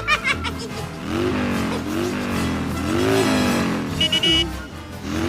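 A toy car's engine revving up and down several times, its pitch rising and falling over about a second each time, with a short high beep about four seconds in.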